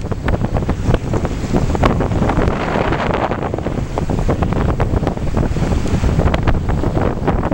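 Strong wind buffeting the microphone aboard a sailing yacht under way, with water rushing and splashing past the hull.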